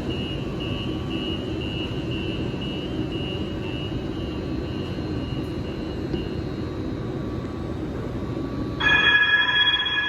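Muni Metro light rail train in a subway tunnel: a steady rumble, with a high beep repeating about three times a second for the first several seconds. Near the end a loud high-pitched steel wheel squeal starts.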